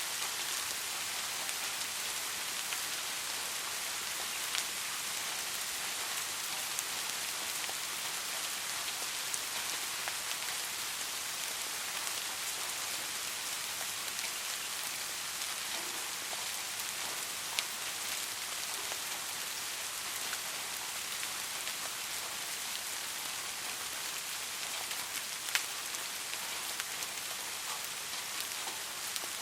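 Soft rain falling steadily, an even hiss with a few louder single drops landing close by.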